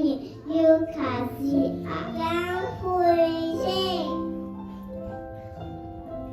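Children singing a song over recorded backing music. About four seconds in the singing stops, and the accompaniment's held notes carry on.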